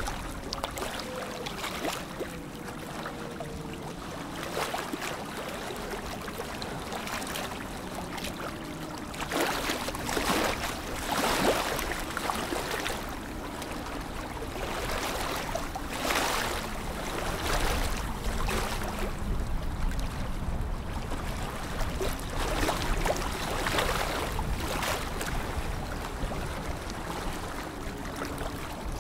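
Lake water lapping and sloshing, with irregular small splashes over a steady watery wash.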